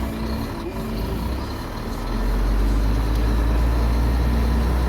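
Scania P124 truck's diesel engine running, heard from inside the cab: a steady low drone that grows louder about two seconds in.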